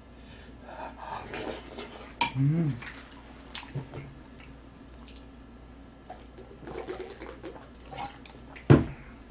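Chewing and wet mouth sounds of someone eating a rolled omelette, with small clicks, a short hummed note about two and a half seconds in, and a thump near the end.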